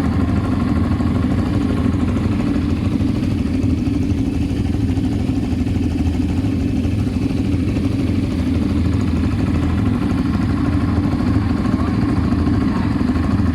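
ATV engine running steadily, an even low drone with no revving.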